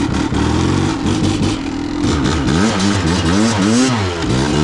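Kawasaki KDX200's two-stroke single-cylinder engine running under way, then from about halfway in revving up and down over and over as the throttle is worked.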